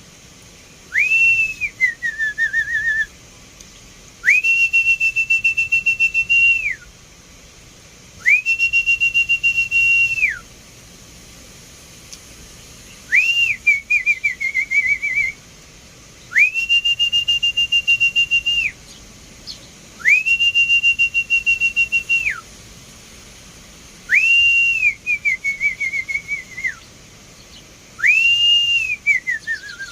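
Whistling: eight long, warbling notes, each about two seconds with a quick rise at the start and a drop at the end, some trailing off in a lower trill, repeated about every four seconds.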